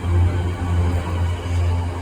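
Road train's towing engine running with a steady low drone, over an even rumble of road noise.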